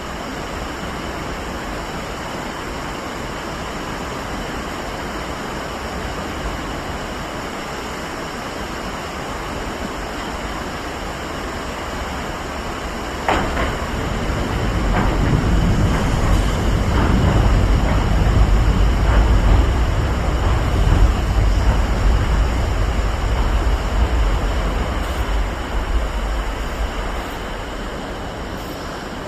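Electric train running by the station: a steady hiss gives way about halfway through to a low rumble with sharp clicks of wheels over rail joints, growing loudest and then fading away.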